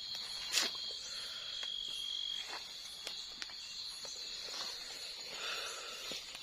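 Forest insects chirring steadily at a high pitch, with a second, lower insect tone that stops about two and a half seconds in. A few faint clicks, the sharpest about half a second in.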